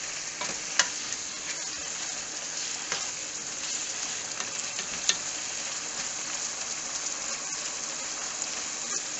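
Diced pork frying in a stainless pot with a steady sizzle while a wooden spatula stirs it, with a few sharp knocks of the spatula against the pot, the loudest just under a second in and about five seconds in.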